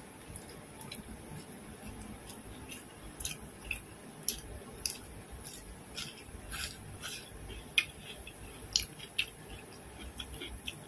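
A person chewing food close to the microphone, with irregular wet mouth clicks and smacks, several a second in the middle stretch.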